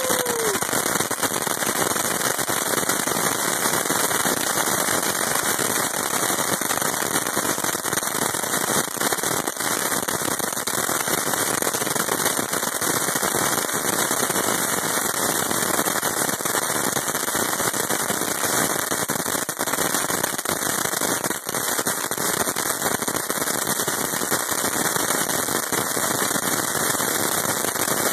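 Crackling Silver Dragon firework spraying sparks, giving off a dense, unbroken crackle of tiny rapid pops that holds steady throughout.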